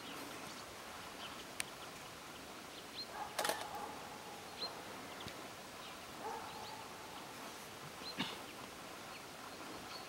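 Birds chirping at dawn: short high chirps every second or two over a faint outdoor hiss, with a brief louder sound about three and a half seconds in.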